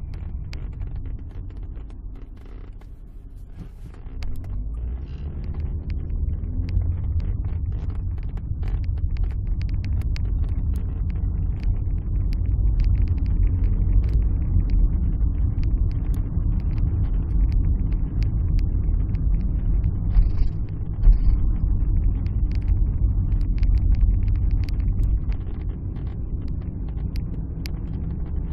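Alfa Romeo 156 engine and road rumble heard from inside the moving car, with scattered light clicks and rattles. It grows louder about four seconds in and stays steady after.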